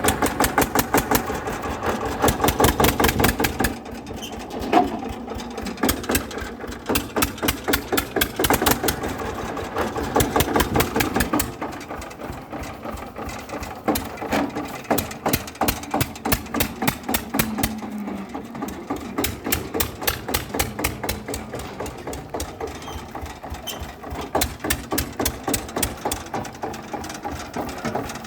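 A mini tractor model's small motor running with a rapid, even knocking, several beats a second. It is louder in the first few seconds and then eases, swelling again now and then.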